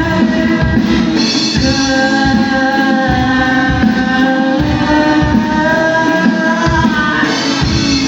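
A live rock band playing: a drum beat under long held melody notes that change pitch every couple of seconds.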